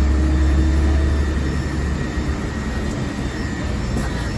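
Inside a moving city bus: steady engine and road rumble with a faint steady whine. The deep low rumble eases about two seconds in.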